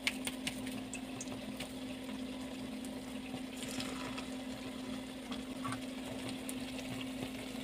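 Masa gorditas frying in hot oil in a skillet: a soft, steady sizzle over a steady low hum, getting a little brighter about four seconds in as another gordita goes into the oil.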